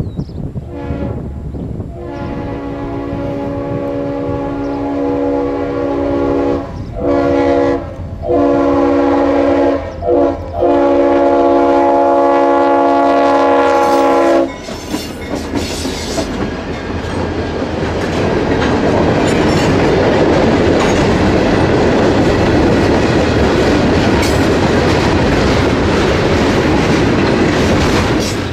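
A CSX freight locomotive's air horn sounds a chord in several blasts, the first and last held for several seconds. After the horn stops, the train's rumble and wheel noise grow steadily louder as its freight cars pass.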